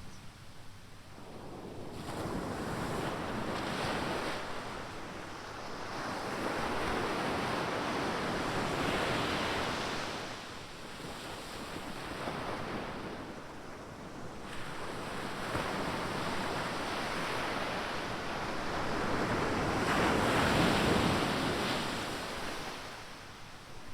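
Ocean surf: waves breaking and washing up the shore in repeated swells, several surges with the biggest near the end, with wind on the microphone.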